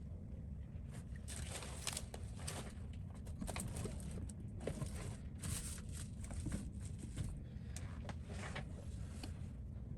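Irregular short scraping strokes as leftover adhesive is worked off an iPhone 14 Pro's OLED display after glass separation, over a steady low hum.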